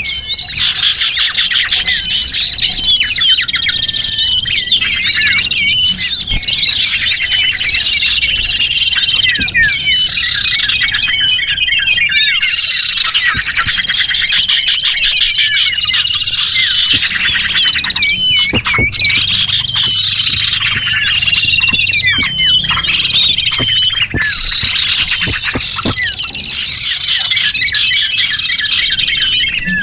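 Small birds chirping and twittering in a dense, overlapping chorus of high, quick chirps and trills. It is a bird-lure (pikat) recording played to draw small birds in.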